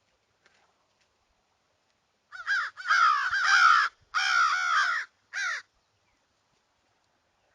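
A bird calling loudly in four bursts, starting about two seconds in, each burst a rapid string of short notes that rise and fall in pitch.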